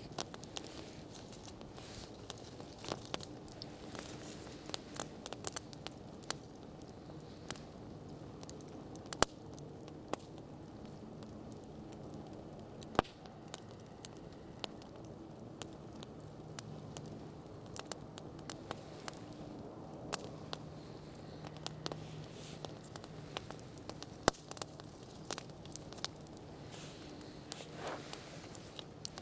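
Campfire crackling: burning wood gives off irregular sharp snaps and pops, with a few much louder pops now and then.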